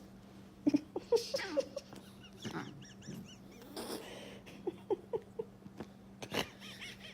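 Short animal calls in brief clusters, with a few high chirps and several sharp knocks, over a steady low hum.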